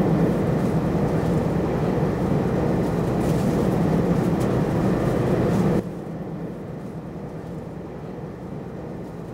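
Steady running noise inside a moving Taiwan Railway express train carriage: a low rumble and hum. It drops suddenly to a quieter hush about six seconds in.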